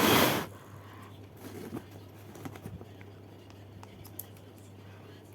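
A short rush of air at the start, then faint scattered clicks and scrapes of small objects being handled over a low steady hum.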